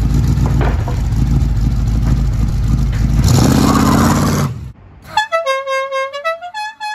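A car engine rumbling as the car pulls away, rising in a rev about three seconds in, then cut off. After a short gap, a short tune of held, horn-like notes stepping up and down.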